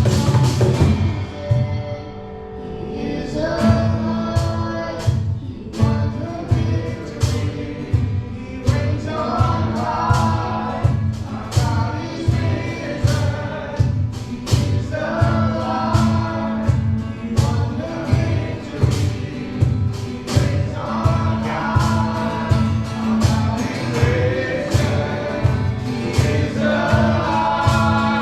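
Christian worship song: several voices singing together over a band with a steady beat of about two a second, the sung lines coming in phrases every few seconds.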